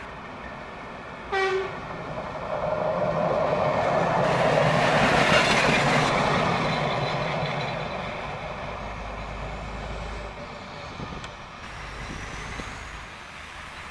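A short horn toot from a red-and-cream regional passenger railcar, then the train passing close by, its rumble swelling to a peak about five seconds in and slowly fading.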